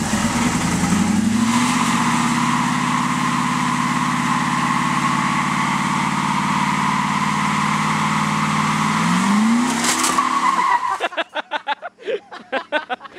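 Car engine revving up and held at high revs while the tyres spin and squeal in a burnout, then the revs drop and it cuts off about ten to eleven seconds in.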